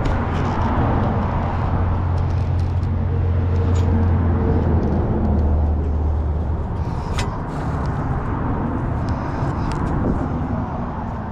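A heavy truck's engine running with a low steady hum that drops in pitch about five seconds in and fades out soon after, with a couple of sharp clicks later on.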